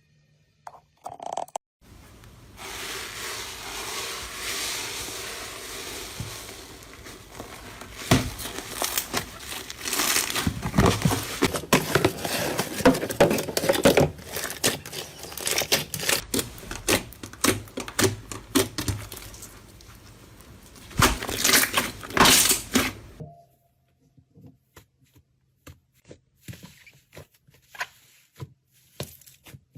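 Slime being squeezed and pressed by hand, a dense crackling full of small sharp pops for about twenty seconds, then only sparse soft clicks near the end.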